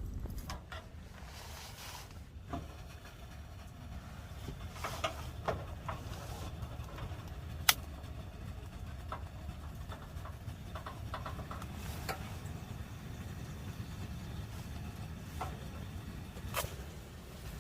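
Small camping gas stove burner running with a steady low rumble under a mini kettle of water being brought to the boil. Scattered light clicks and knocks of handling run through it, with one sharp click about eight seconds in.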